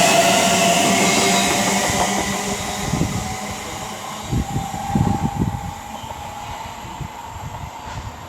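A Class 730 Aventra electric multiple unit pulling away, its traction motor whine and wheel noise loud at first and fading steadily as it leaves; the unit has a bit of a flat wheel. A few low thumps come in the second half.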